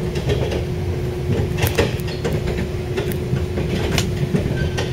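Inside a moving passenger train: the steady low rumble of the wheels on the rails with a constant hum, broken by several sharp clicks and rattles.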